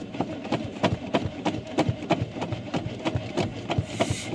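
Old 350 V8 with a Quadrajet four-barrel carburetor on a cold start, turning over and catching with an uneven rhythmic chugging, about five pulses a second.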